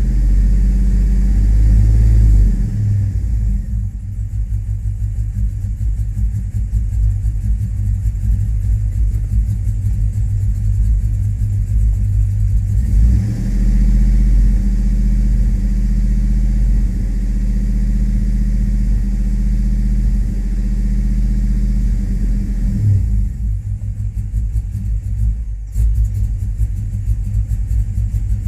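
2005 Chevrolet Tahoe's 5.3-litre V8 running, its low, steady note shifting several times, on an engine that runs rough and stalls and has logged a bank 2 lean code.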